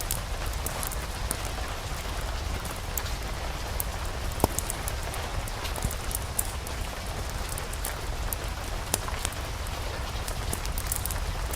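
Steady rain falling, an even hiss over a low rumble, with many scattered sharp crackles throughout.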